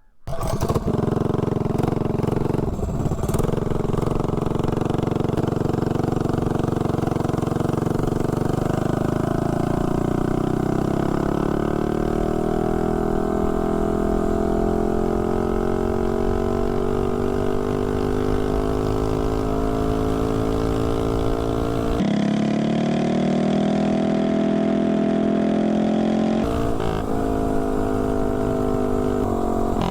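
Tillotson 212 single-cylinder engine with a header pipe, running at wide-open throttle on a mini bike under way. Its pitch climbs steadily for several seconds as the bike gathers speed, then holds high and steady near top speed.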